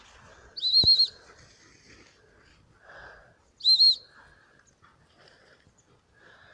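Two short, loud blasts on a trilling gun-dog whistle, about three seconds apart, with a warbling high pitch: whistle signals to a working spaniel.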